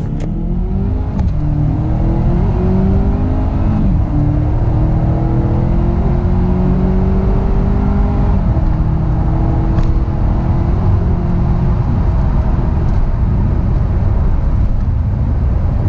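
Volvo V60 T6's supercharged and turbocharged 2.0-litre four-cylinder engine under hard acceleration on its original factory tune, heard from inside the cabin. The engine note climbs in pitch through each gear and drops back at upshifts about a second in, about four seconds in and about eight and a half seconds in, then steadies over the last few seconds.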